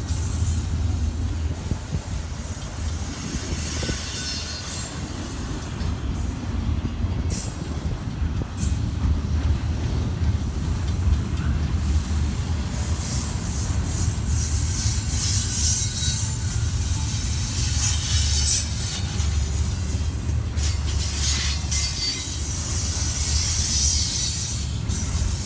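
Freight train cars rolling past, wheels squealing against the rails over a steady low rumble, with recurring high-pitched squeal.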